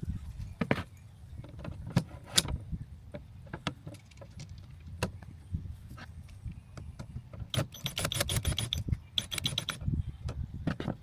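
Scattered knocks and metallic clinks of hand assembly work on the camper platform kit and its hardware, with two short runs of rapid clicking near the end.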